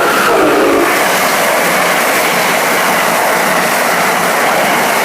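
Amtrak Northeast Regional train passing at speed close by: a loud, steady rush of wheel and air noise.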